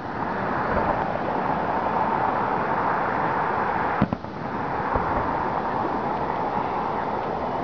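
Aerial fireworks shells bursting in the distance: one sharp, loud bang about four seconds in, over a steady background hiss.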